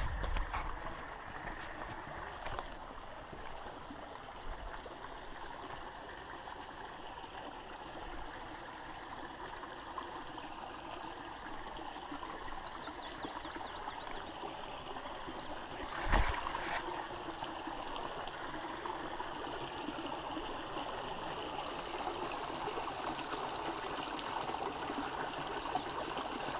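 Creek water running and trickling over rocks. About halfway through, a bird gives a quick run of notes falling in pitch, and a few seconds later comes a single thump, the loudest sound.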